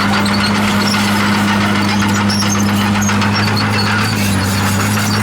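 Komatsu D51PX bulldozer's diesel engine running steadily, with scattered high squeaks from the machine.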